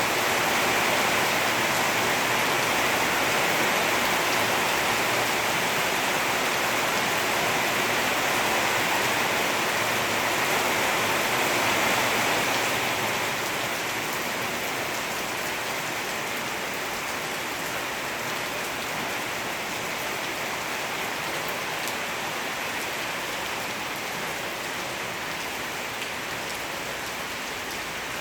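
Steady rain falling, a dense even hiss of drops hitting surfaces. About halfway through it eases slightly and carries on a little quieter.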